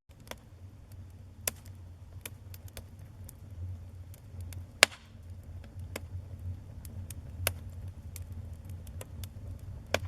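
Wood fire burning in a fireplace, crackling with scattered sharp pops over a steady low rumble of flame, and one loud pop about halfway through.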